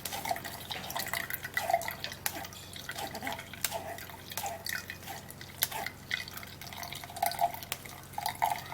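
Cucumber juice dripping through a strainer into a cup: many short, irregular drips and plinks.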